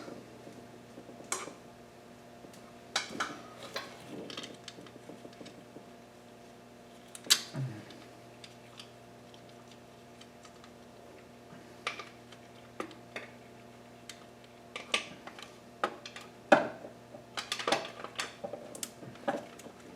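Scattered metallic clicks and clinks of hand tools and bolts being handled while fitting a PCV catch can to an engine's timing cover, with a quick run of clicks near the end. A faint steady hum runs underneath.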